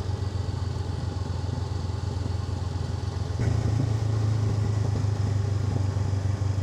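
Honda NX500's parallel-twin engine running steadily as the motorcycle rides down a road, a steady low hum that gets a little louder about halfway through.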